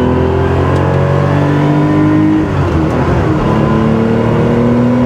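Porsche 911 SC's air-cooled flat-six, converted to 3.2 litres with a GT3-style exhaust, pulling hard under acceleration, its pitch rising steadily. About two and a half seconds in, the pull breaks briefly for an upshift, and the engine then climbs again in the next gear.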